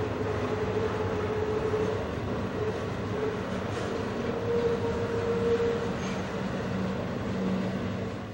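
Double-stack intermodal freight train's container cars rolling past on a curve: a steady rumble of wheels on rail, with an even droning tone running through it.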